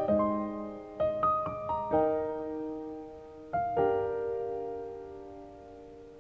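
Soft background piano music: a few gentle chords and single notes, the last chord left ringing and fading away.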